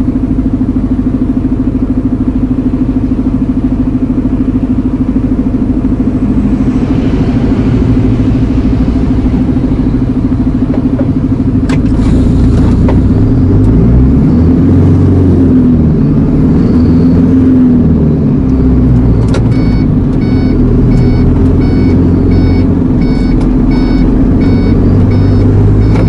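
Iveco Eurocargo lorry's diesel engine running, heard from the cab while driving; its pitch rises and falls through the middle as it pulls and changes speed. In the last third a short electronic beep repeats about twice a second, after a couple of clicks.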